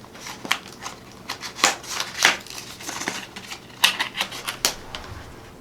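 Hard plastic clicking and rattling as a RAM kit's plastic packaging is handled and opened, an irregular run of sharp clicks with a few louder snaps.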